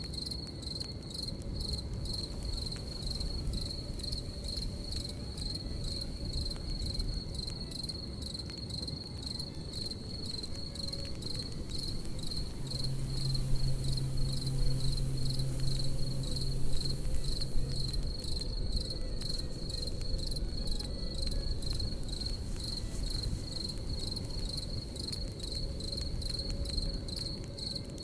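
Crickets chirping in a steady, high, pulsing trill over the crackle and low rumble of a campfire, with many small pops. A low steady hum comes in for a few seconds around the middle, while a few louder pops stand out.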